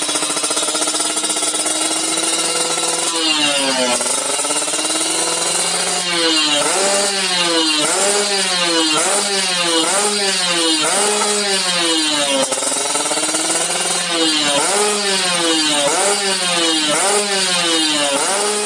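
Kawasaki Ninja 150 single-cylinder two-stroke engine through an aftermarket racing exhaust. It idles steadily for about three seconds, then is blipped over and over, the pitch rising and falling about once a second, with a short lull partway through.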